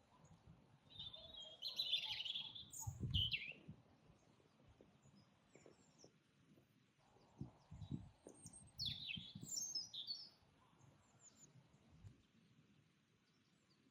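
Birdsong: two bursts of chirping and twittering phrases, about two seconds in and again about nine seconds in, with quiet gaps between.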